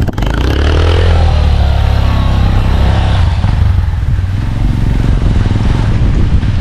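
Car engine pulling away: a short rise in pitch about a second in, then running steadily under load.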